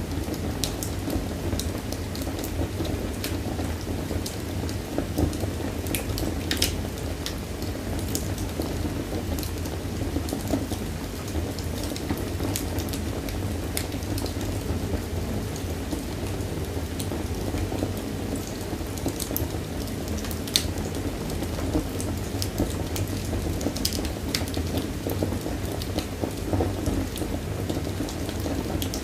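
Wood fire burning in a fireplace: a steady low rumble and hiss of the flames with frequent sharp crackles and pops from the logs.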